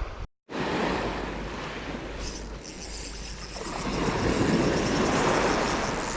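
Sea waves washing with wind on the microphone, swelling and fading again about four to six seconds in. The sound cuts out completely for a moment just after the start.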